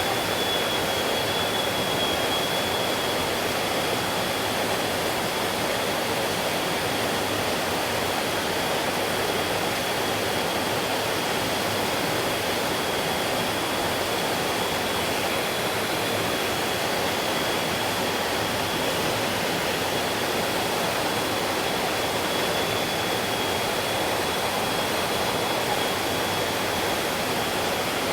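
Creek water flowing in an even, unbroken rush, with a thin steady high whine running above it.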